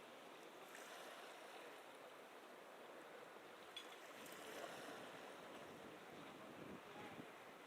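Faint wash of small Mediterranean waves lapping at the shore, gently swelling and easing, with a soft click about four seconds in.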